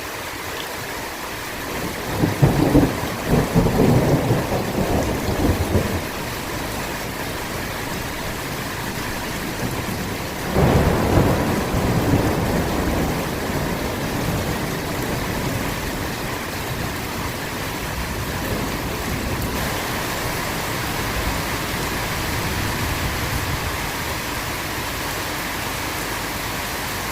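Steady heavy rain with thunder: a long rolling rumble starting about two seconds in and lasting about four seconds, then a second, shorter rumble about ten seconds in, over the unbroken hiss of the rain.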